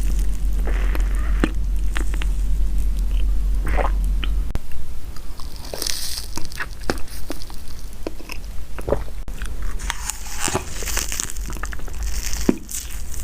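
A person biting into and chewing crunchy snacks, with sharp, irregular crunches throughout. A low hum underneath drops away about four seconds in.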